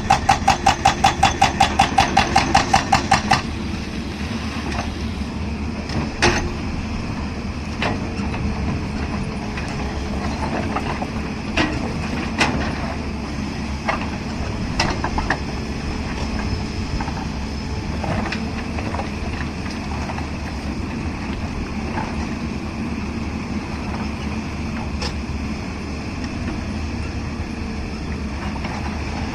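Excavator-mounted hydraulic concrete breaker hammering rapidly, about six ringing blows a second, stopping after three or four seconds. The excavator's diesel engine then runs steadily, with scattered metallic knocks and clanks.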